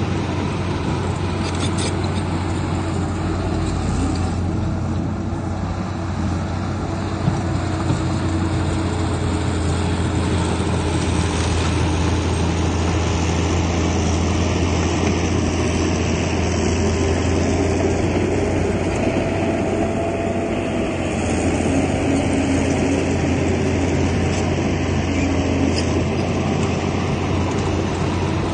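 Heavy diesel earthmoving machinery running steadily, a low engine drone whose pitch drifts a little, with a brief knock about seven seconds in.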